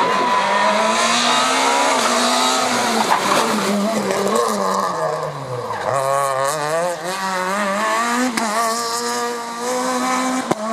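Rally car engine under hard driving. The revs hold, sag to a low point about six seconds in, then climb again in wavering steps. A single sharp pop comes near the end.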